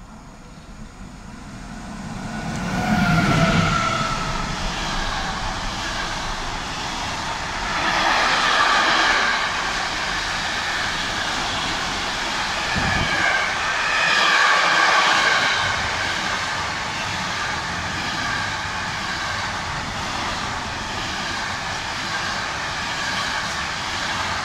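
A Siemens class 189 electric locomotive hauling a container freight train passes close by. The sound builds over the first couple of seconds, with a short whine that drops in pitch as the locomotive goes past about three seconds in. Then comes the steady rolling noise of the container wagons' wheels on the rails, swelling now and then as the wagons go by.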